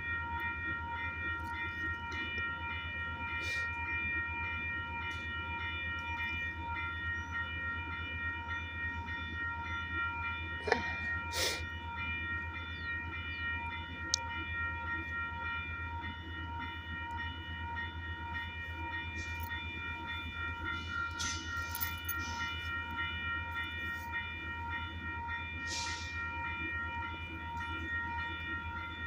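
Metrolink commuter train with its F125 diesel-electric locomotive, giving a steady low hum under a steady high-pitched whine. A few sharp clicks and knocks come through about a third of the way in and again past the middle.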